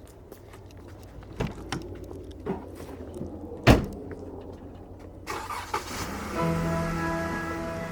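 A low vehicle rumble with a few sharp knocks and one loud thump about halfway through. About six seconds in, music with held chords comes in.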